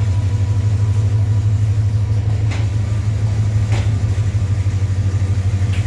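Diesel-hauled passenger train pulling out past the platform: a loud, steady low engine drone that pulses rhythmically, with a few sharp clicks from the wheels on the track.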